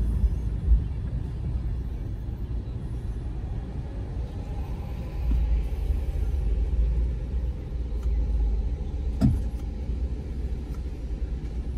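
Ford Bronco driving, a steady low rumble of engine and tyres, with a bump about a second in and a sharp knock near the end.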